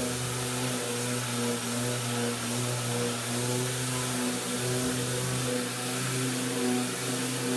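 Electric sander and vacuum cleaner running together: a steady motor hum that wavers slightly in pitch over a constant hiss of rushing air.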